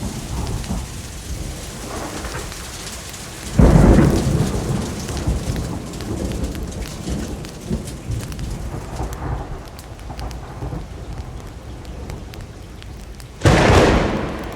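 Steady rainfall with two sudden claps of thunder that rumble away, one a few seconds in and one near the end.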